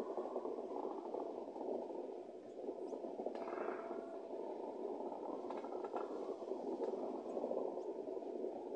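Freight wagons rolling slowly past, mixed with falling rain: a steady rushing noise, with a few faint clicks about five to six seconds in.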